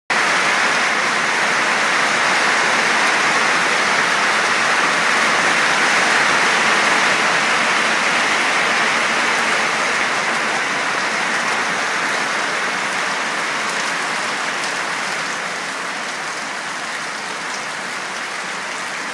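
Steady summer rain falling and pattering on surfaces, a dense, even hiss that eases slightly over the last few seconds.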